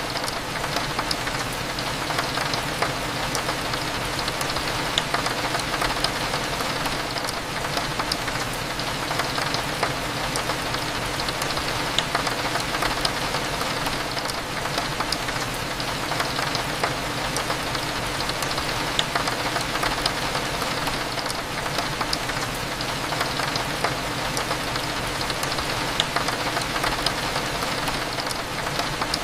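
Steady rain against a window, many small drops ticking through an even hiss, over a low, steady cafe hum.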